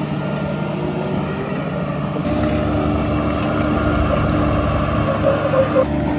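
Heavy diesel engine of earthmoving machinery running steadily. About two seconds in, its note deepens and grows louder as it takes on load.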